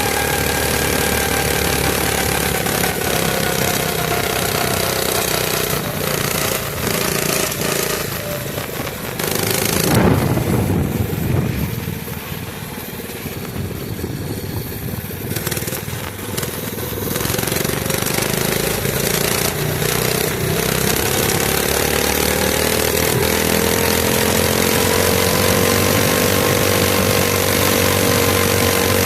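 Mini bike's small engine running under way, its pitch slowly sinking and then climbing again with the throttle. About ten seconds in there is a loud gust of wind noise. The engine then eases off for several seconds before picking up again.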